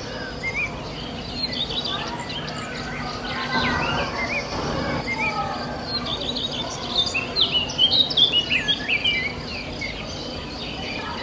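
Small birds in an indoor aviary chirping and calling, many short rising and falling chirps that build to a busy, louder flurry about two-thirds of the way through, over a steady low hum.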